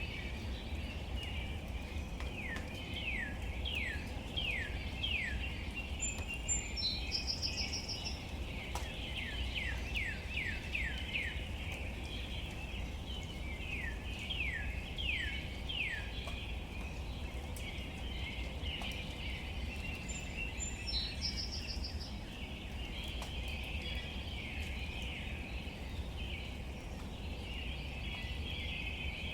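Gentle rain falling on leaves with a steady low rumble, and birds calling through it. There are three bouts of quick falling whistled notes, and a short high trill comes twice.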